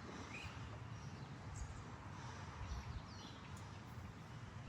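A few faint, short bird chirps, one a small falling whistle, over a steady low outdoor rumble.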